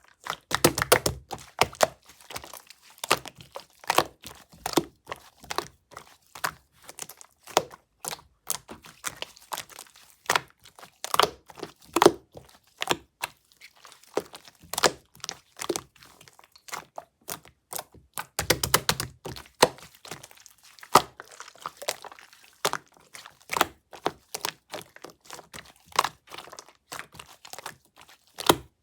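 Slime being pressed and worked by hand, giving an irregular run of sharp clicks and pops several times a second, with a few denser bursts of squelching and soft low thuds.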